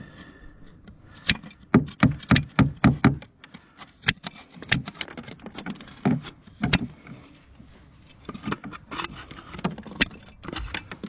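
Hammer knocking nails into fibre-cement roofing slates: a quick regular run of about six strikes about two seconds in, then scattered single knocks and clicks.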